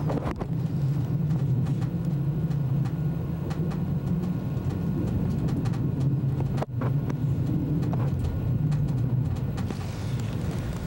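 Steady low rumble of an ICE high-speed train running, with scattered light clicks and a brief break in the sound about two-thirds of the way through.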